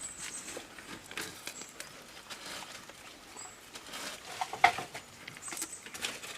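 Jamunapari–Saanen crossbred goats feeding on leaves: scattered rustling and crunching of foliage, with one loud, sharp snap about four and a half seconds in. A few brief, faint high chirps.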